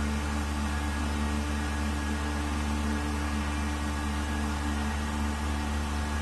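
Vacuum pump running steadily with a low hum and even hiss, pumping down the sealed chamber of a mixer.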